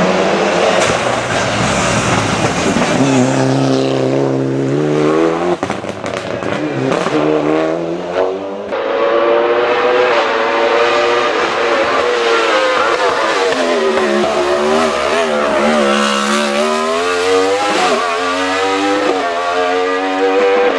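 Hillclimb race car engine at full effort, its pitch climbing hard, dropping sharply with each gear change or lift for a corner, then climbing again, many times over.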